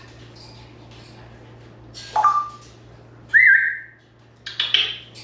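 African grey parrot whistling: a short call about two seconds in, then a clear whistle that swoops up and holds steady for about half a second, followed by a short raspy sound near the end.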